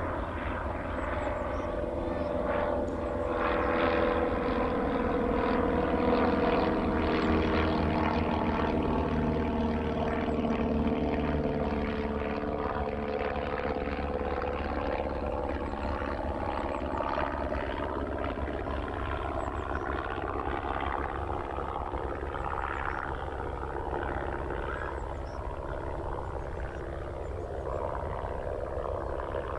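Small propeller aircraft droning overhead. Its engine note slides down in pitch over the first dozen seconds and rises again later, loudest about five seconds in.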